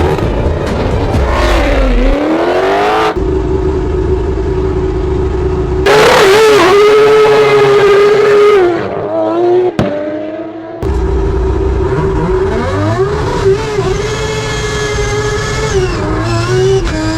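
Rotary-engined race car at full throttle, its high steady pitch dipping briefly and climbing again as it shifts gears. The sound jumps abruptly several times, cut between shots.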